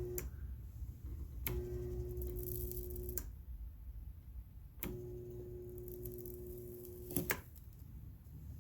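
Homemade spot welder built from a microwave oven transformer, buzzing with a steady mains hum in two bursts while it is switched on. The first burst lasts about one and a half seconds and the second about two and a half seconds. Each burst starts and ends with a sharp click.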